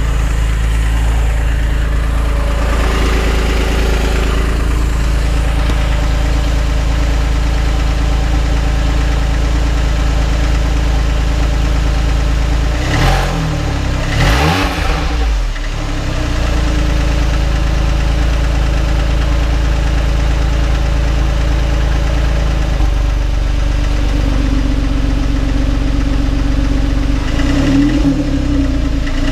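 2006 Porsche 911 (997.1) flat-six engine idling with a knocking sound, revved briefly about halfway through and again near the end. The owner suspects the knock comes from bore scoring.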